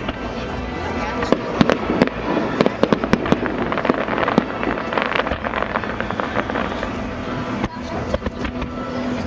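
Fireworks salute going off in rapid volleys of sharp cracks and bangs, densest from about a second in to six seconds, with another burst near the end, over a steady background of show music.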